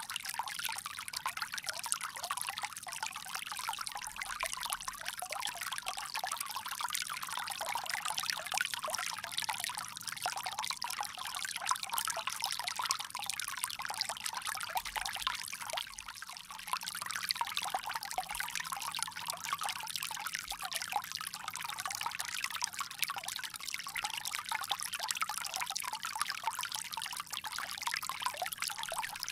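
Water pouring in a steady trickle from a bamboo spout.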